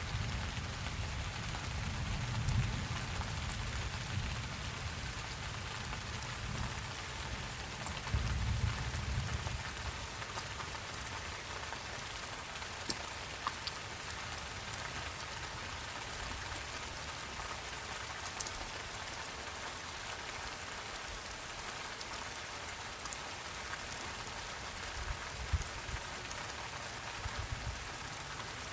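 Steady rain falling, a continuous even patter, with low rumbles in the first few seconds and again about eight seconds in.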